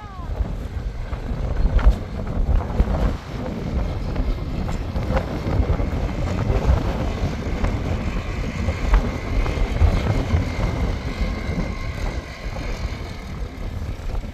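Wind buffeting the microphone in uneven gusts, with a few faint clicks scattered through.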